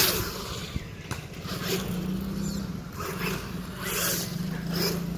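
1/10-scale brushless RC monster truck being driven, its motor humming on and off, with about five short hissy scrabbling bursts from its tyres on the ground.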